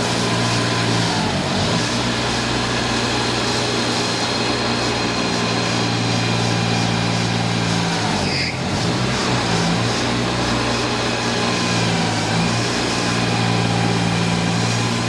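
Steady motor-vehicle engine and traffic noise, with something passing by about eight seconds in.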